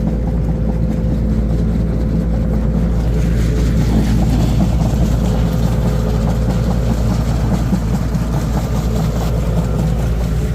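Loader's engine running steadily under load as the machine drives across soft ground, a constant low drone.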